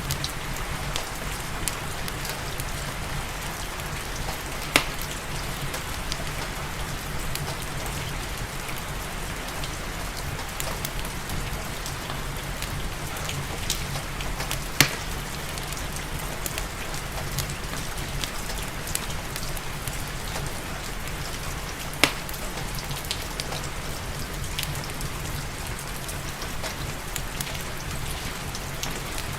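Steady rain mixed with a wood fire crackling in a fireplace, with many small crackles. Three sharp pops, about 5, 15 and 22 seconds in, are the loudest sounds.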